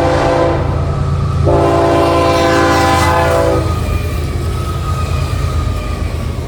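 Diesel freight locomotive of a Florida East Coast Railway train sounding its multi-chime air horn for a grade crossing: one blast ends about half a second in, then a longer blast runs from about 1.5 to nearly 4 seconds in. The locomotive's engine rumbles steadily underneath, easing slightly near the end.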